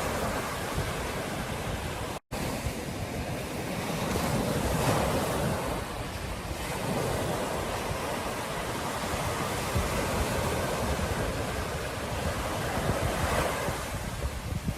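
Ocean surf washing onto a beach, with wind buffeting the microphone. The wash swells a few seconds in and again near the end, and the sound cuts out for a split second about two seconds in.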